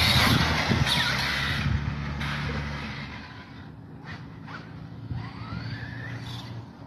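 A vehicle speeds past close by, loud in the first couple of seconds and then fading away, leaving faint chirps near the middle and end.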